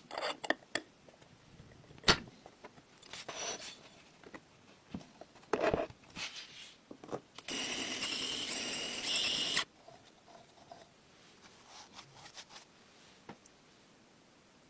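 Small engine parts being handled and fitted by hand: scattered clicks, light knocks and scrapes, broken by a louder steady buzz lasting about two seconds past the middle.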